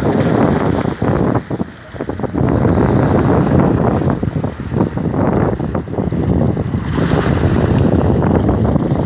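Choppy Lake Ontario waves crashing and washing along the shoreline, with gusty wind buffeting the microphone in a loud, rough rumble that briefly eases about two seconds in.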